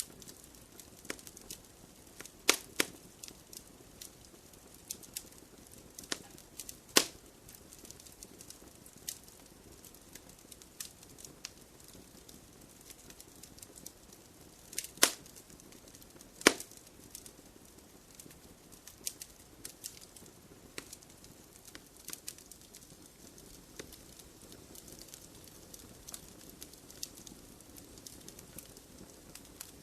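Wood fire crackling in a fireplace: a steady scatter of small sharp pops and ticks, with four louder snaps of burning wood, two close together near the start and two more around the middle.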